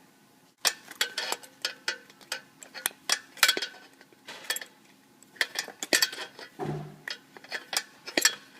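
Pliers working the twisted wire loose on the metal bottom plate of a Bag Shag golf ball retriever: a string of sharp, irregular metallic clicks and clinks, with one duller knock about two-thirds of the way through.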